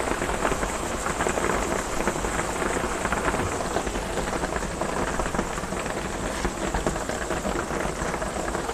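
Heavy rain drumming steadily on a metal cabin roof, a dense patter of countless drops.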